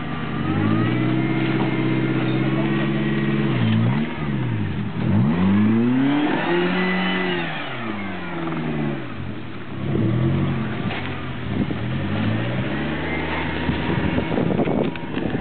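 A Suzuki Jimny's engine is revved up and down repeatedly as the off-roader works its way up a steep slope, its pitch climbing and dropping several times. Near the end there is a quick run of knocks and cracks.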